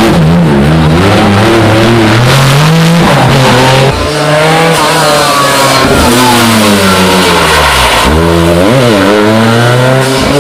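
Historic rally car engines revving hard on a special stage, the pitch climbing and dropping repeatedly as the drivers change gear and lift off. The sound changes abruptly about four and eight seconds in as one car gives way to another.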